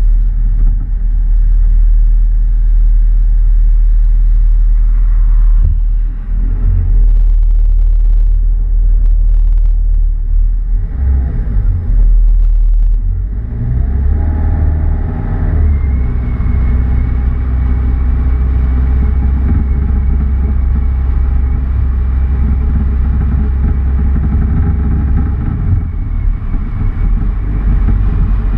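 A motor vehicle's engine running with a heavy low rumble, revving up about halfway through and then settling back to a steady drone.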